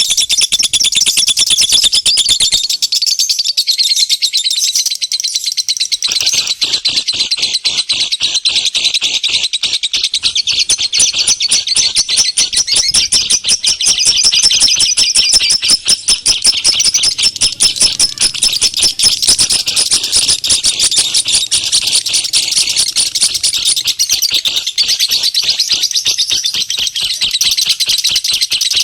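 Small birds chirping rapidly and continuously at a high pitch, many calls packed close together, as on a bird-lure (pikat) call recording.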